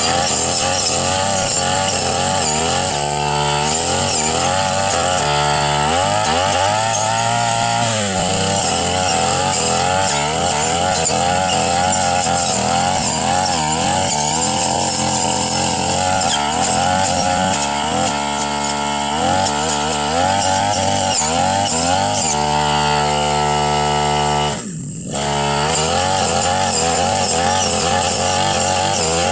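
Brush cutter engine running under throttle while cutting grass and undergrowth. Its pitch repeatedly rises and falls as it revs and bogs under load, with a brief drop in level near the end.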